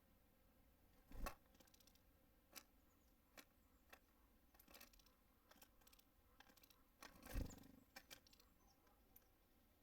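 Faint, scattered taps and knocks of small birds landing on and pecking at a wooden bird feeder, with a louder thump about a second in and another just after seven seconds.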